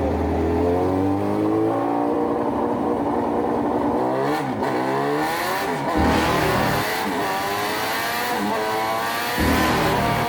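An engine revving up under acceleration, its pitch climbing steadily, then dropping and climbing again a few times, as with gear changes or repeated pulls.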